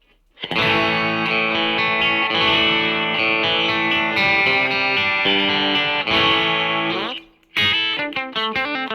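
1979 Greco SE500 Super Sounds, a Fujigen-made Stratocaster-type electric guitar, played: strummed chords ringing for about seven seconds, then a short pause and a quick run of single picked notes near the end.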